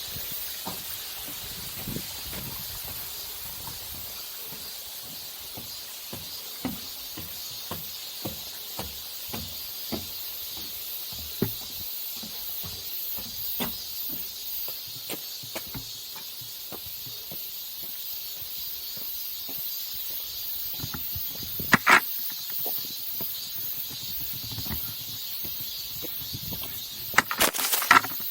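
Strong wind on a mountain summit: a steady hiss with many short gusts buffeting the camera microphone, and a few louder knocks about two-thirds through and near the end.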